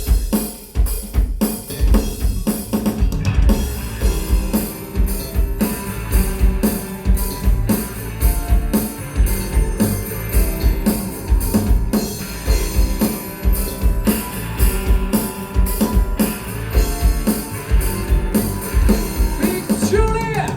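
Live band playing an upbeat instrumental song intro, with drum kit, bass and keyboard, kicking in suddenly and keeping a steady beat.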